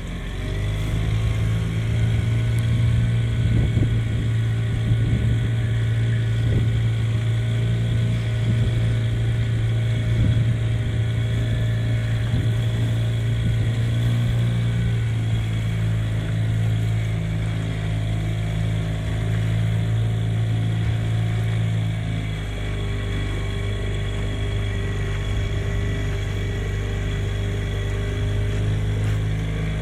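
A large engine running steadily, making a deep, even hum with steady tones above it. The tone shifts slightly about two-thirds of the way through.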